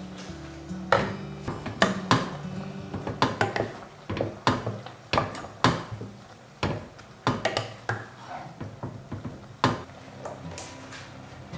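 Kitchen utensils knocking and clicking against cookware in short, irregular strokes, a few a second, over soft background music.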